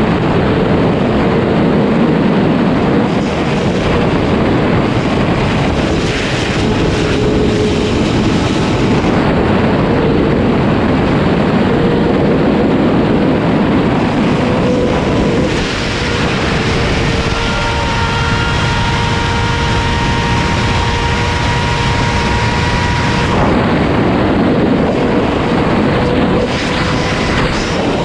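Sport motorcycle engine running at steady speed under heavy wind noise, a ride at pace. The wind noise eases for several seconds past the middle, leaving the engine's steady tone clearer, then builds again.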